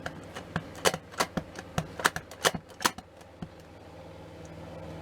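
A quick irregular run of about ten light clicks and taps from paper and craft tools being handled on a work table, stopping about three and a half seconds in.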